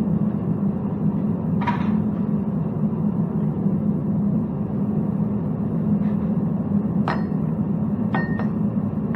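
Steady low roar of a metal-melting furnace's burner, with a few sharp metallic clinks of tools against metal, one about two seconds in and a quick pair near the end.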